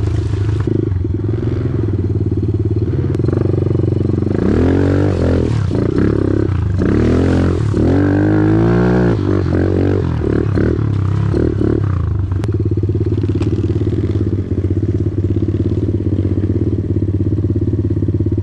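A small off-road vehicle's engine runs steadily, then is revved up and down several times over a stretch of about eight seconds in the middle before settling back to an even run.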